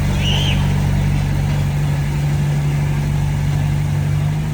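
Heavy earthmoving machine's diesel engine running steadily at an even pitch, with a short high chirp about a third of a second in.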